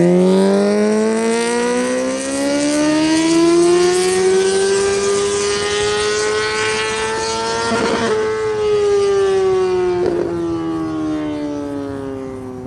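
Second-generation Yamaha R6's inline-four running loud through a Racefit Growler exhaust with no dB killer as the bike passes. Its note climbs steadily for about eight seconds, then falls away, with a short rasp near the top and another about two seconds later.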